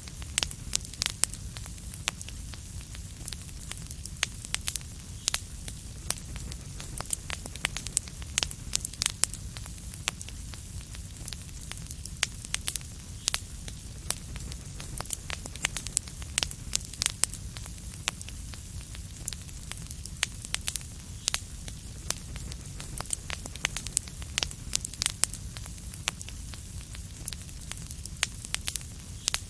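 Wood fire crackling in a fireplace: frequent irregular sharp pops and snaps over a steady low rumble and soft hiss.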